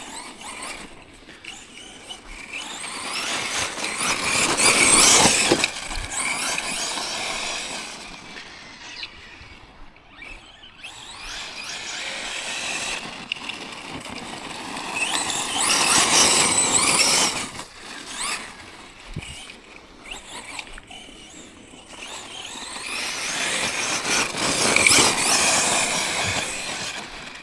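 Tekno MT410 2.0 electric 1/10 monster truck driven hard three times, its motor and drivetrain whining up to a high pitch and back down each time, with tyres churning over rough ground.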